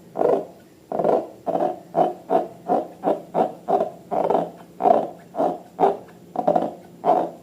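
A rapid series of short hooting squeaks, about three a second, each with a clear pitch.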